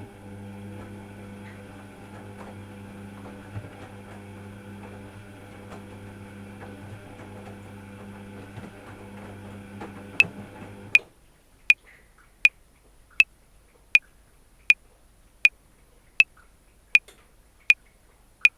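Washing machine running with a steady motor hum that cuts off about eleven seconds in. A metronome starts clicking just before that, at 80 beats per minute (one sharp click every three-quarters of a second), and keeps going to the end, about a dozen clicks.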